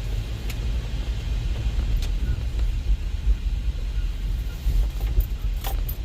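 Low, uneven rumble that swells and dips throughout, with a few light clicks near the end.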